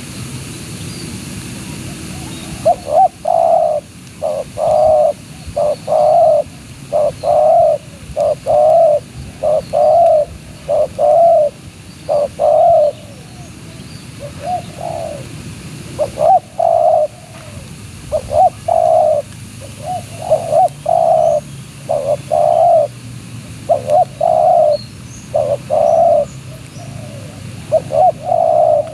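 Spotted dove cooing close by: phrase after phrase of short low coos that starts about three seconds in, with a brief pause about halfway.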